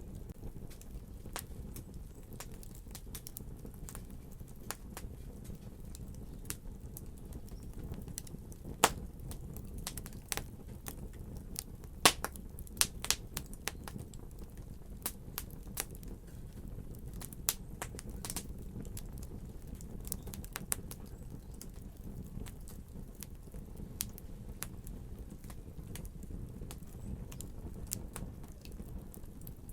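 Wood fire crackling, with irregular sharp pops over a steady low rumble; the loudest snaps come about nine and twelve seconds in.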